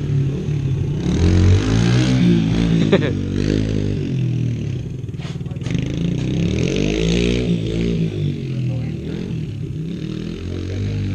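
Small dirt bike engine revving up and dropping back repeatedly as it is ridden, its pitch rising and falling several times.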